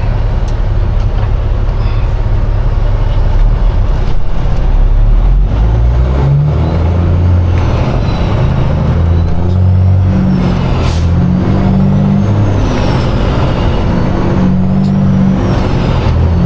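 Diesel engine of a Peterbilt semi truck, heard from the cab: a deep low-rpm rumble at first, then from about six seconds in the engine revs climb and drop in steps as the truck pulls ahead and changes gear.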